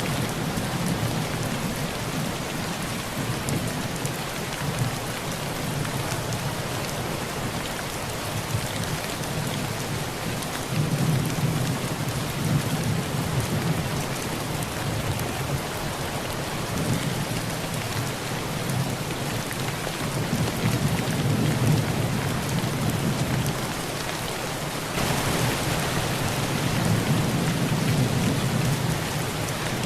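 Heavy rain falling on a tin roof as a steady hiss, with low thunder rumbling in and out several times. The rain grows louder near the end.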